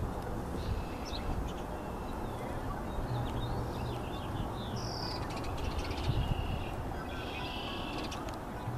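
Small birds chirping and calling on and off, in short high chirps and trills, over a steady low rumble.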